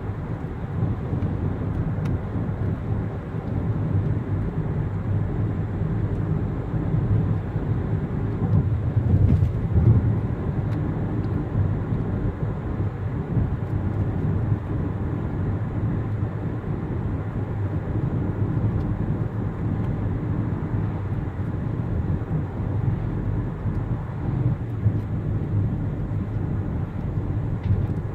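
Steady low rumble of road traffic, with no train passing.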